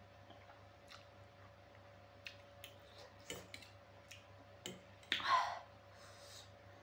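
Close-miked eating of spicy instant ramen: wet mouth clicks and chewing smacks, several sharp separate ticks, and one short, louder wet burst about five seconds in.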